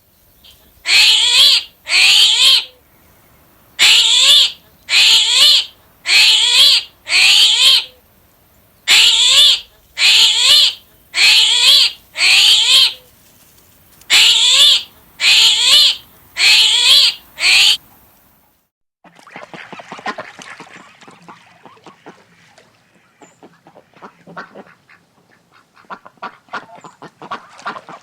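Waterfowl calling: loud calls repeated about once a second in runs of two to four, each call rising slightly in pitch. About two-thirds of the way in they give way to a quieter flock of many short, overlapping calls.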